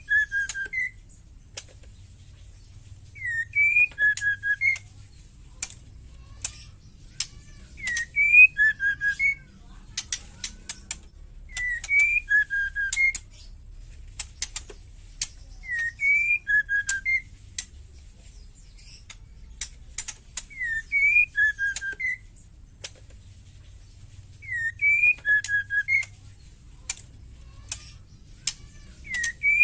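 Female white-rumped shama calling: a short rising whistled note followed by a few quick lower notes, the same phrase about every four seconds, with dry rattling clicks of its 'ketrekan' chatter in between.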